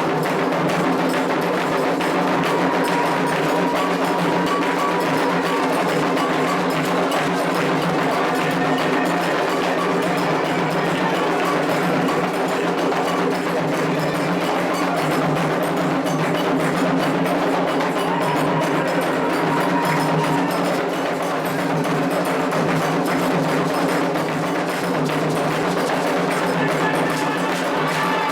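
Candomblé ritual music: atabaque hand drums and a struck bell keep a steady, dense rhythm, with voices singing at times.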